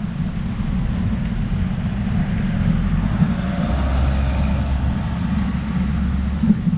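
Wind rumbling on the microphone of a moving road bike, gusting unevenly, with a broad swell of road or traffic noise around the middle.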